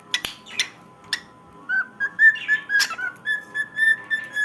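Cockatiel whistling its song: a few sharp chirps, then from under two seconds in a string of short, clear whistled notes repeated about three times a second.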